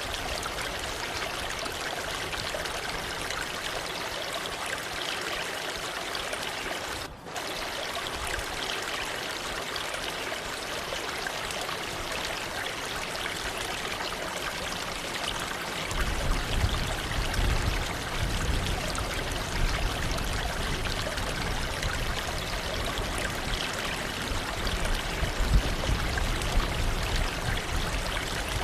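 Waterfall rushing and splashing steadily. It has a brief dropout about seven seconds in, and a deeper low rumble joins a little past halfway.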